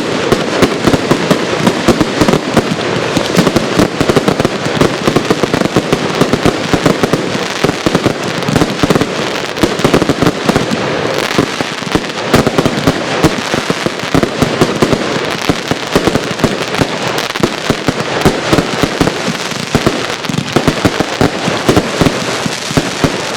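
Consumer fireworks cake firing a dense, continuous barrage of rapid shots and cracking bursts.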